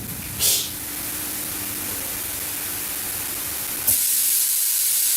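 A brief hiss, then about four seconds in a loud, steady hiss starts suddenly and keeps going.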